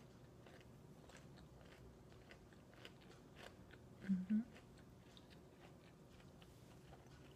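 A person chewing fried chicken with the mouth closed: faint, scattered wet clicks and smacks of chewing. About four seconds in, a brief two-part hummed "mm-mm" is the loudest sound.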